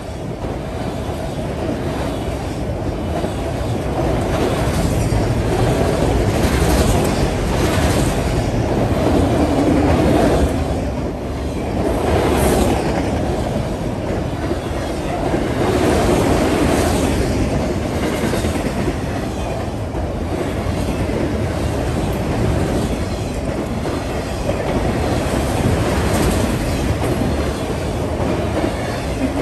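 Freight train of enclosed autorack cars rolling past close by: a steady rumble of steel wheels on rail, with repeated clacks as the wheels cross rail joints.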